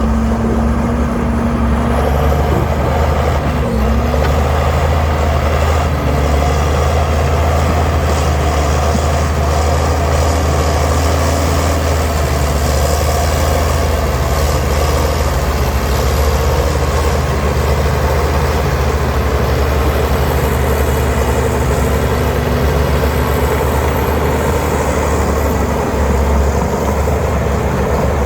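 Heavy earthmoving machinery's diesel engine running steadily at working load, deep and loud with little change in level.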